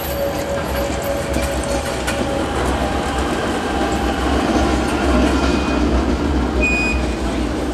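Electric rack-railway train running past: a steady rumble that grows louder towards the middle, with a few sharp clicks early on.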